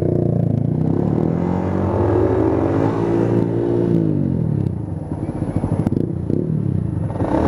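Yamaha YZF-R125's single-cylinder four-stroke engine running under way: the revs climb and hold, drop off about halfway through, then pick up again near the end, over a low rumble.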